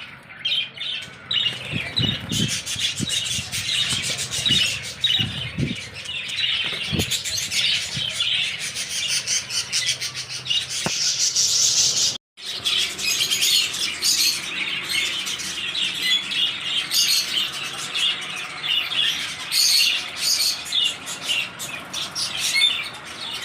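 A flock of small pet parrots in a breeding setup chirping and chattering continuously, with a few low thumps in the first several seconds. The sound drops out for an instant about halfway through.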